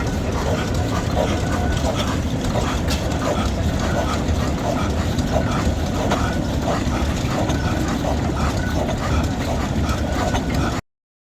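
Steady low rumble of a heavy engine running, with faint voices in the background and a single sharp click about three seconds in; the sound cuts out briefly near the end.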